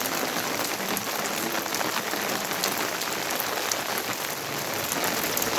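Steady heavy rain, a dense even hiss with many small drop ticks through it.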